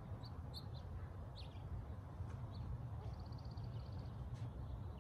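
Small birds chirping: scattered short high chirps, then a quick trill about three seconds in, over a steady low rumble.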